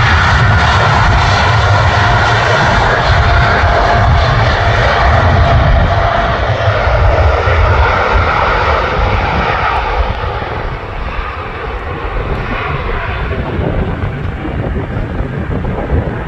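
Jet airliner engines running loud with a faint steady whine, easing off somewhat about ten seconds in.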